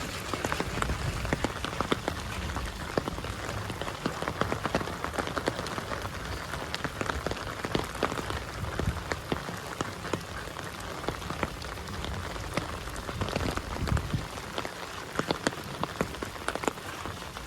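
Heavy rain falling, a steady hiss dense with sharp, close raindrop hits.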